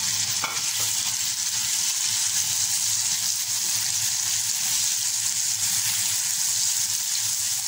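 Chicken liver pieces sizzling steadily in hot oil on a flat iron tawa over high heat, just after going into the pan.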